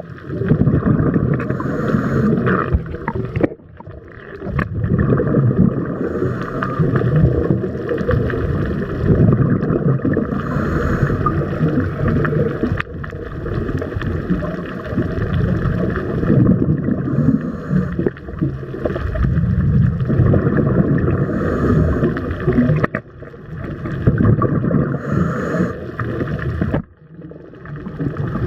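Muffled, rumbling water noise picked up by a waterproof camera in the sea, with short hissing puffs every few seconds and two brief drops in level.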